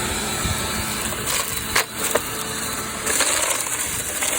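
A Power Force compact vacuum cleaner running while it sucks up dirt and debris, grit rattling and crackling through it, with a couple of sharp cracks about two seconds in. The vacuum keeps clogging on the dirt.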